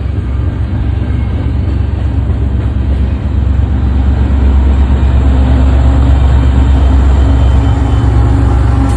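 Train going by with a loud, heavy low rumble that swells about three and a half seconds in.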